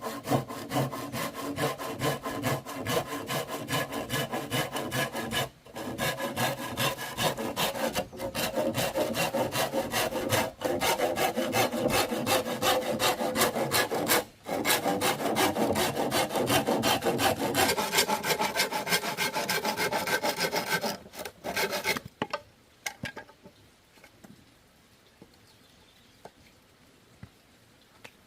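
Saw cutting through bamboo in quick, even back-and-forth strokes, with a few short pauses; the sawing stops about three-quarters of the way through.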